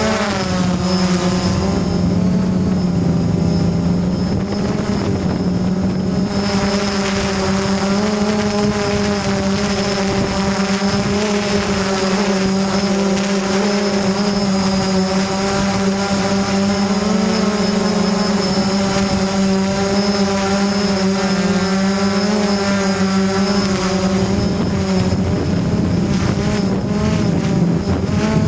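DJI Phantom quadcopter's propellers and motors humming steadily in flight, the pitch wavering slightly as the motors adjust.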